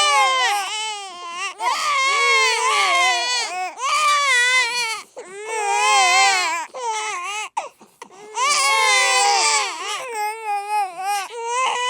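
Babies crying loudly, their cries wavering up and down in pitch and overlapping, with a brief break about seven and a half seconds in.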